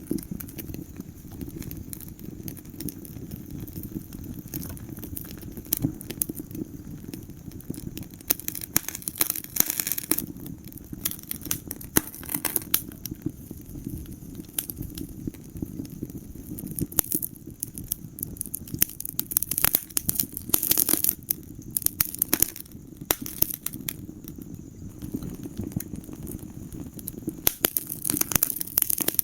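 Wood fire in a fireplace crackling, with frequent sharp pops over a steady low rumble of burning.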